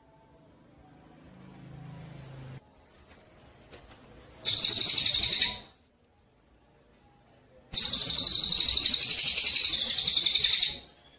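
Songbird singing two rapid, high, pulsing trills: a short one about four and a half seconds in and a longer one of about three seconds starting near eight seconds.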